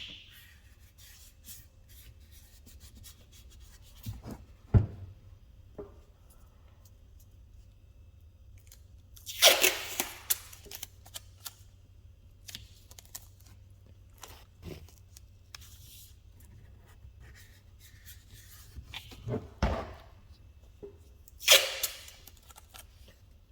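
Masking tape being ripped off a freshly painted helmet in two loud tears, one about ten seconds in and one near the end. Two dull knocks and light handling clicks come in between.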